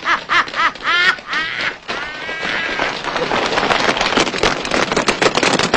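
Hearty laughter in quick repeated bursts for about the first two seconds, then a dense crackling noise that grows and cuts off abruptly.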